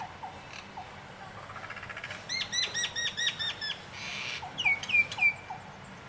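Songbird calling: a quick run of about seven repeated chirps, then three short down-slurred whistles, over a steady background hiss.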